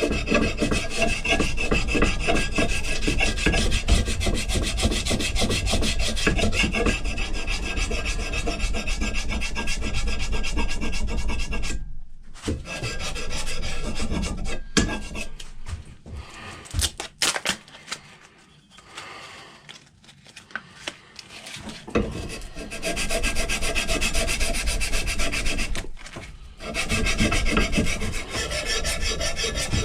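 Rapid back-and-forth scraping of an abrasive worked by hand over a rusty steel axe head, taking off rust and smoothing the metal. The strokes stop for several seconds about twelve seconds in, with a few light knocks, then start again and pause briefly once more.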